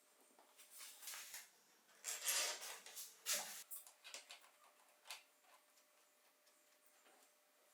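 Light clicks and scraping from hand work on bicycle parts, busiest from about two to three and a half seconds in, then a few single ticks.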